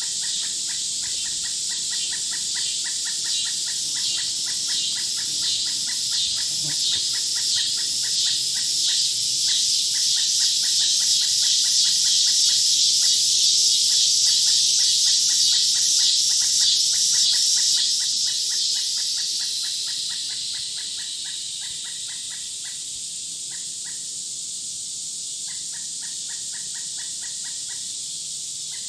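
Woodland insect chorus: a high, rapidly pulsing drone that swells, then fades away about two thirds of the way through, over a steady rapid chirping that keeps going with short gaps.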